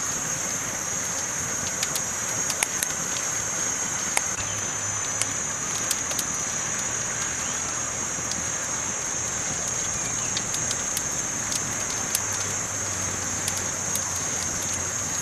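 Campfire burning with irregular sharp crackles and pops over a steady high hiss.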